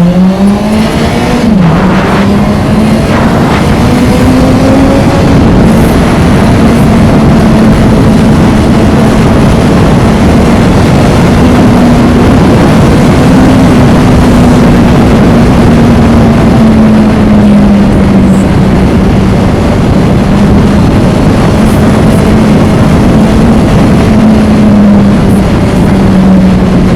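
Honda CB1000R inline-four engine pulling hard, its pitch rising, with a quick drop at a gear change about a second and a half in. It then holds a steady cruise, the pitch easing up and down a little, over a constant rush of wind noise.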